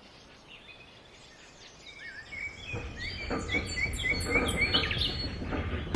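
Birds chirping over a low outdoor rumble, fading in and growing louder; about halfway in, one call repeats a short chirp about three times a second.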